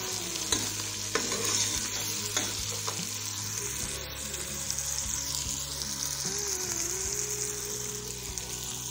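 Onion, tomato and ginger-garlic masala sizzling in hot oil in an aluminium pot, being fried down until the tomatoes soften. A steel spoon stirs it, clicking against the pot a few times in the first few seconds.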